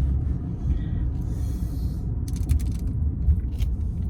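Steady low rumble inside a car, with a short hiss about a third of the way in and a few light clicks near the middle.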